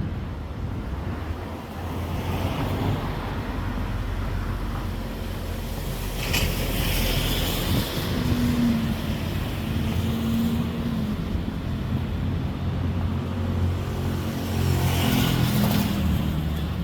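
Street traffic: a steady low engine rumble from cars on the road, with two vehicles passing more loudly with tyre hiss, one about six seconds in and one near the end.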